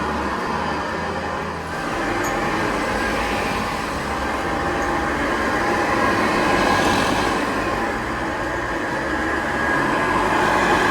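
Vintage 1970s Hoover Model 728 upright vacuum cleaner running steadily while vacuuming, with a hum and a low rumble. It swells a little louder about seven seconds in and again near the end.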